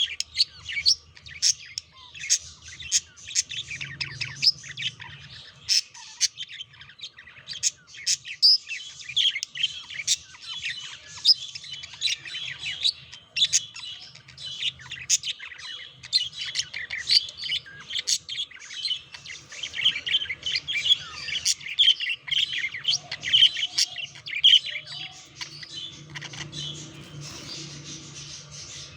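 Budgerigars chattering: a continuous stream of rapid, short, high chirps and warbles.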